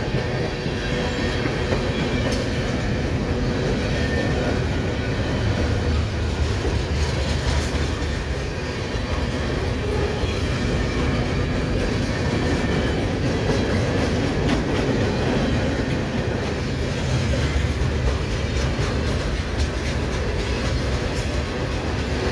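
Freight cars of a CSX mixed manifest train rolling past close by: a steady rumble of steel wheels on rail, with many short clicks.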